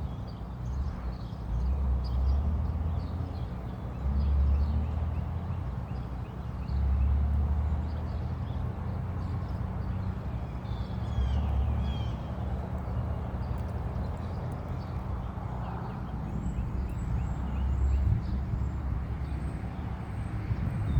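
Small birds chirping faintly off and on, with a short run of gliding calls about halfway through, over wind gusting on the microphone in low rumbling swells every couple of seconds.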